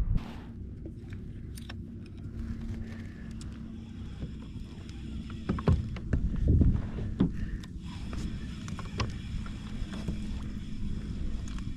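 A kayak on the water with a steady low rumble of wind and water at the microphone. A few sharp knocks, the hull being bumped, come near the middle.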